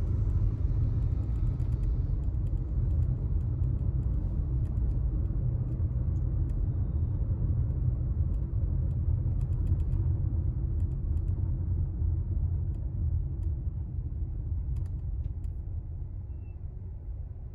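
A car driving, with the steady low rumble of its engine and tyres on the road easing off near the end. Faint scattered ticks sound over it.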